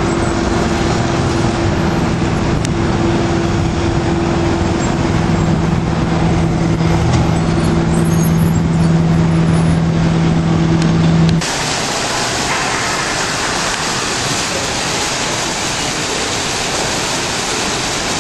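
Steady vehicle noise with a low, even hum, cutting off suddenly about eleven seconds in to an even rushing noise.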